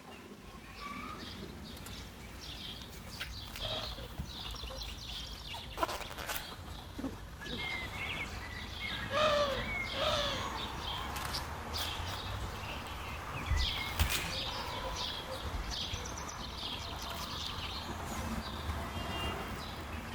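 Birds chirping and calling, with two short arched calls near the middle and a few sharp knocks.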